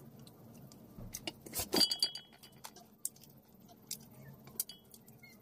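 Close-up chewing and crunching of fried food eaten by hand, with scattered small clicks and one louder crunch a little under two seconds in.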